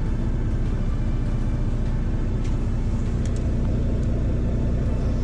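Truck engine running steadily with a low, even rumble.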